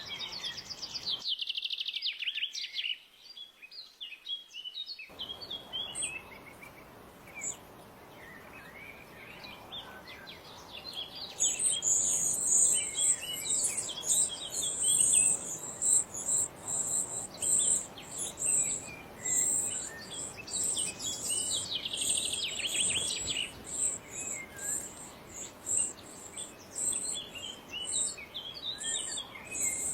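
Parrot chirping and calling in short series of sharp notes, with a high, pulsing chirring running alongside from about a third of the way in.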